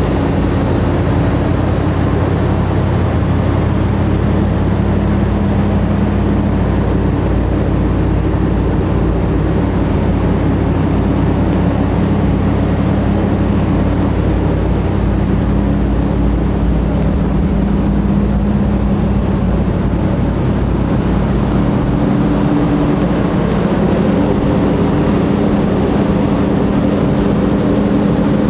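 1975 Corvette Stingray's 350 L82 small-block V8 idling steadily through an ANSA exhaust, a continuous low engine hum at a constant pitch.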